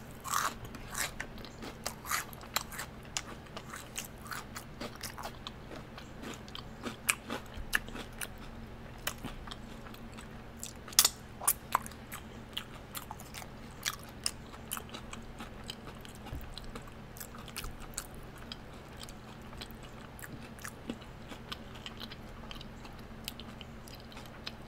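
Close-up eating sounds: biting into and chewing a crunchy potato-crusted Korean corn dog, with many small irregular crunches and wet mouth clicks. A cluster of louder crunches comes about halfway through.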